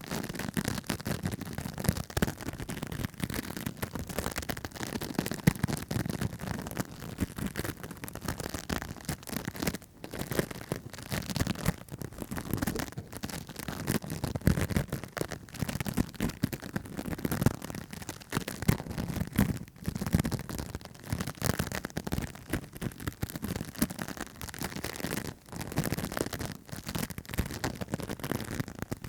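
Close-miked ASMR tapping and scratching: a dense, continuous run of small quick taps and scratches on an object, with brief pauses every few seconds.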